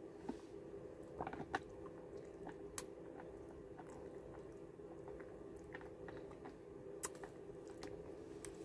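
A person chewing and swallowing food, with soft mouth clicks and smacks. A sharper click comes about seven seconds in, over a steady background hum.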